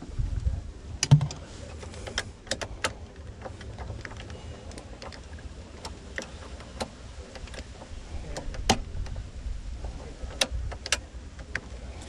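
Irregular sharp plastic and metal clicks and taps from hands working the ignition switch and steering-column parts of a 1998 Jeep Wrangler, with a dull knock about a second in as the loudest sound.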